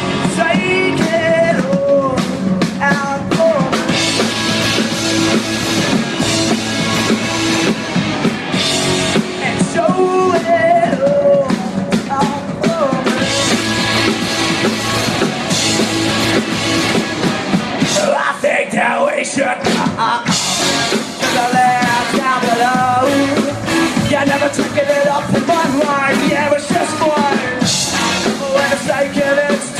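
A live rock band playing loud: drum kit and guitars with a singing melody line over them. About two-thirds of the way through, the bass and drums drop out for about two seconds before the full band comes back in.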